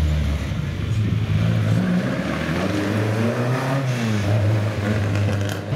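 Rally car engine revving hard, its note rising and then falling about three to four seconds in.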